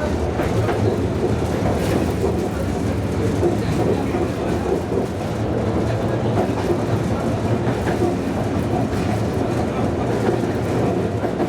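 Tram running along its tracks, heard from inside the car: a steady rumble of the wheels on the rails and the running gear.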